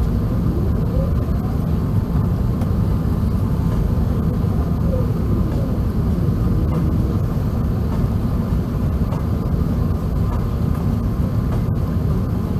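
Steady low rumble of an Airbus A380 airliner's cabin noise, engine and airflow noise holding at an even level throughout.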